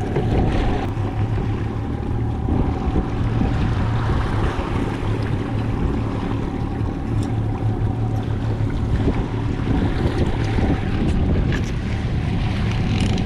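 Boat engine running steadily at slow trolling speed, with water washing past the hull and wind on the microphone.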